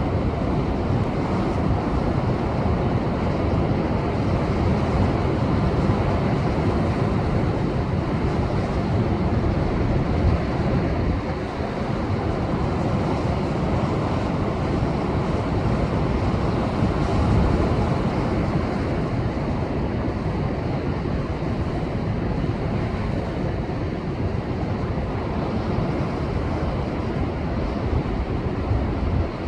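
Rough post-typhoon surf breaking and surging over shoreline rocks: a continuous heavy rush that swells a few times, with wind buffeting the microphone.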